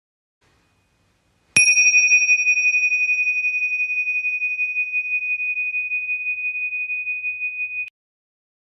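A single bell struck once about a second and a half in, ringing on as one clear high tone with a wavering shimmer for about six seconds before it cuts off suddenly.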